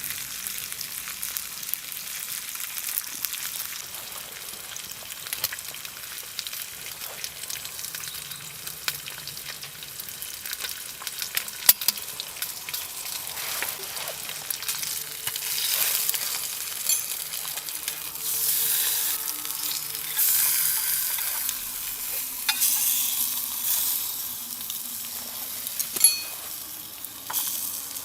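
Food sizzling and frying in a pan over a fire, with stirring. The sizzle swells louder several times in the second half, and a couple of sharp clicks stand out.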